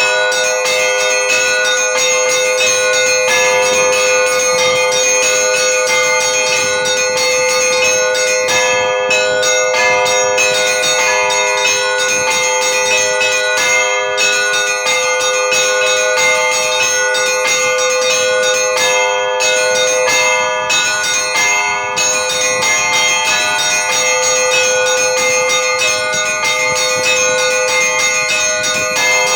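Russian Orthodox church bells rung by hand in a continuous peal: several bells struck over and over, their ringing tones overlapping without pause.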